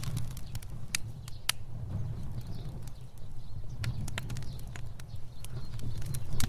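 Fire burning: a steady low rumble of flames with irregular sharp crackles and pops.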